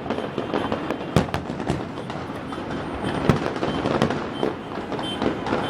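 Aerial fireworks bursting in a rapid, irregular run of bangs and crackles, with a few louder booms standing out about a second in, around three seconds in and at four seconds.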